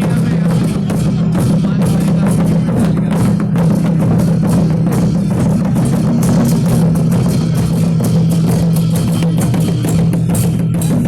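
Loud music with dense, continuous drumming over a steady low drone.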